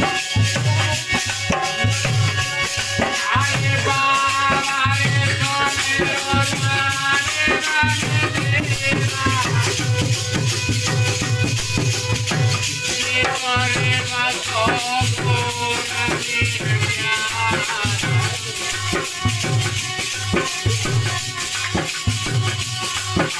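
Instrumental passage of Indian folk Alha music: a regular drum beat with rattling, jingling percussion over a sustained melody line.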